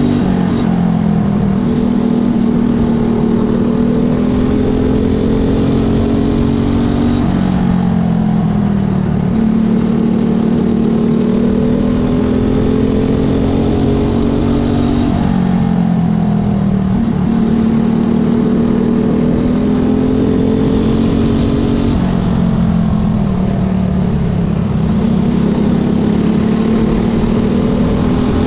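Speedway motorcycle engine running at racing speed, its note held high, then dropping sharply and climbing back about every seven to eight seconds, four times in a row: the throttle eased and reopened for the turns, lap after lap.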